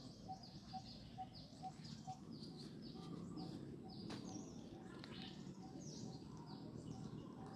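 Birds chirping: many quick, high, falling chirps overlapping throughout, with a soft, evenly repeated low note about twice a second.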